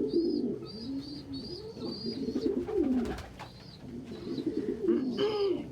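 Domestic pigeons cooing, repeated low rolling coos overlapping through the loft, with short thin high chirps above them and a brief click about three seconds in.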